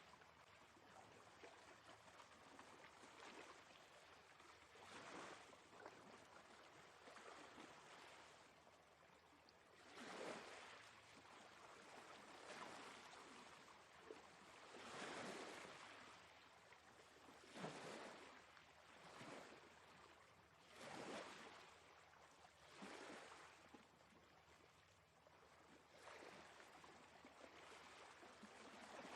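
Faint sea waves washing in and drawing back, an irregular rush of surf that swells every few seconds.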